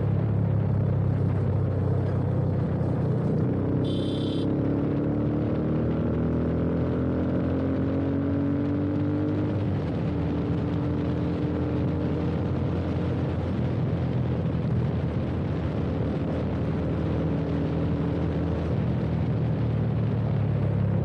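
Yamaha FZ25's single-cylinder engine running through an aftermarket slip-on exhaust while riding, with wind rush on the microphone. The engine note climbs slowly for several seconds from about four seconds in, then holds steady. A brief high chirp comes about four seconds in.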